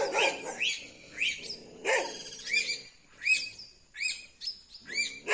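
A flock of anus calling over one another in short, arched, rising-and-falling cries, several a second: alarm calls as they mob a hawk near their nest.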